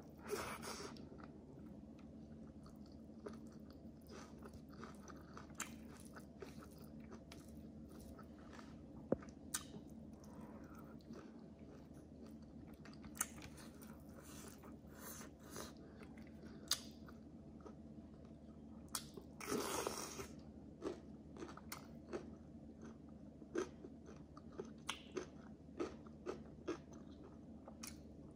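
A person chewing and biting food close to the microphone, with scattered sharp crunches and mouth clicks over a low steady hum. There is a louder burst of eating noise about twenty seconds in.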